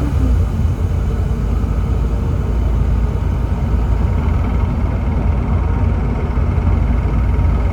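Volvo D7C 7.3-litre diesel engine of a Volvo B7TL double-decker bus running, heard from on board as a steady low rumble. A faint high whine comes in about halfway through.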